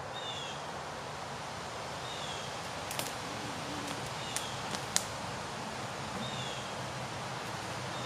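Woodland bird giving a short, high, downward-sliding call about every two seconds, the repeated calling the walker hears as the birds freaking out. A few sharp clicks come midway, the loudest about five seconds in.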